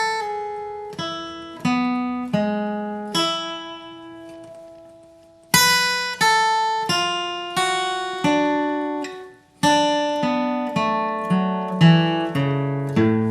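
Acoustic guitar flatpicked one note at a time, playing a slow lead riff. Each note rings and dies away; one long note fades out a few seconds in before a quicker run of notes follows.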